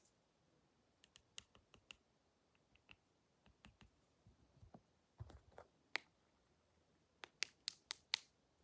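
Quiet, scattered clicks and taps of barber tools being handled close to the microphone, ending in a quick run of five or six sharper clicks.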